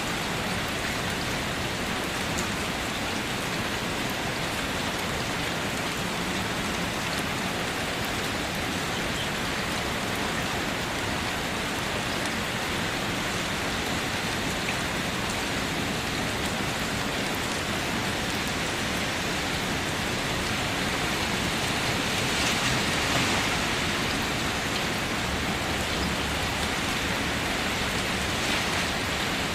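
Steady downpour of rain during a thunderstorm, swelling briefly louder about three-quarters of the way through.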